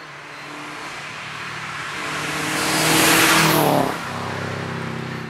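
A car approaching and passing at speed. The engine grows louder to a peak about three seconds in, its pitch drops sharply as it goes by, and it then runs on lower and steadier.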